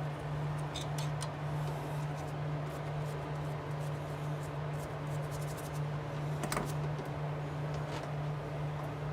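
Steady electric machine hum running evenly, with scattered light metallic ticks over it.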